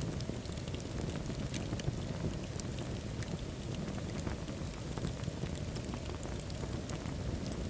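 Wood fire burning in a fireplace: a steady low rumble of flame with frequent small, sharp crackles and pops scattered throughout.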